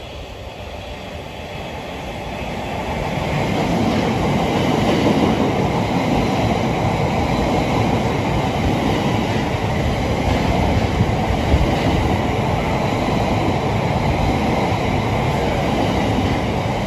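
South Western Railway electric multiple unit running alongside the platform, its wheels and running gear rumbling and clattering on the rails. The sound grows louder over the first few seconds as the train draws level, then stays steady.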